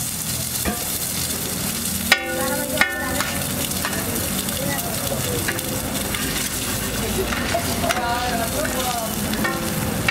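Halved boiled eggs sizzling steadily in oil on a large flat iron tawa. About two seconds in there are two sharp ringing clinks, the metal spatula striking the griddle.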